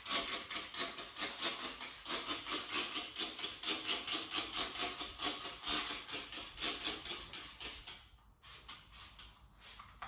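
Hand trigger spray bottle of waterless car wash being pumped fast and repeatedly, a quick run of hissing spritzes several a second onto the car's paint. The spraying stops about eight seconds in, leaving only a few faint strokes.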